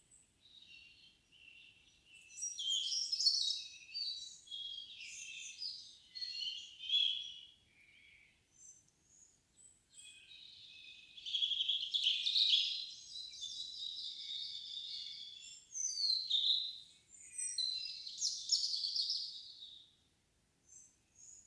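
Songbirds singing in a windless summer evening forest: long, intricate high-pitched song phrases, with a brief lull about eight seconds in before a longer phrase begins.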